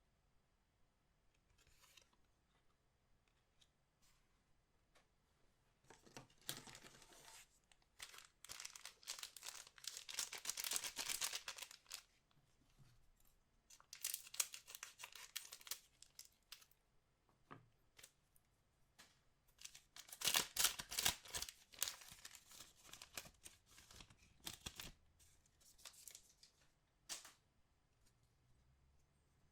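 Trading card pack wrappers being torn open and crinkled by hand, in several spells of tearing and crackling with short pauses between.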